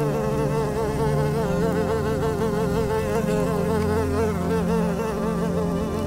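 Paper wasps buzzing: a steady wing drone that wavers rapidly in pitch.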